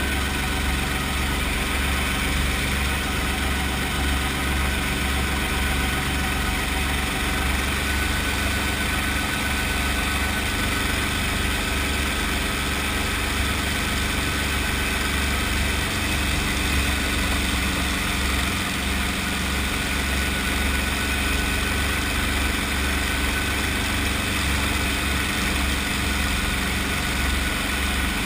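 Brantly B2B helicopter running steadily, its piston engine droning at a constant speed with a strong low hum.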